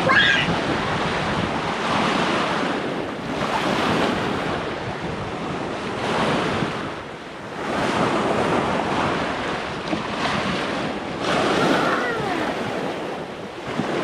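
Waves washing onto a beach, swelling and easing every few seconds, with wind buffeting the microphone.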